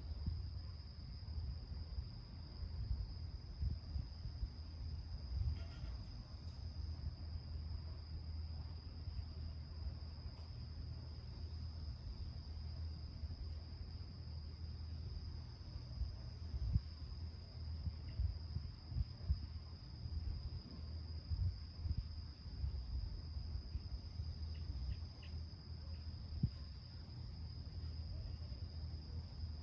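Insects singing in a steady, unbroken high trill, over a low rumble.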